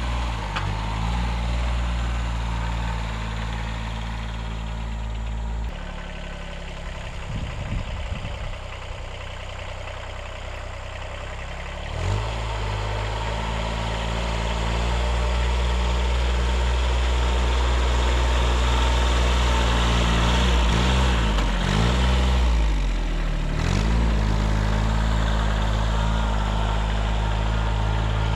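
1978 Kubota B6100's small diesel engine running steadily while the tractor clears snow. The engine note dips and recovers about twelve seconds in, and several more times later on, as it takes load.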